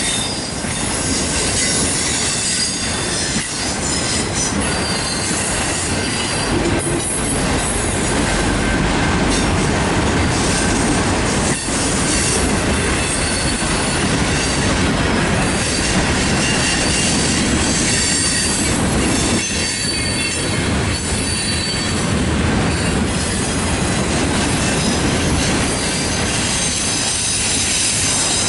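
Union Pacific freight cars, autoracks among them, rolling past close by at about 28 mph: a steady, loud rumble of steel wheels on rail, with a high squeal from the wheels running over it.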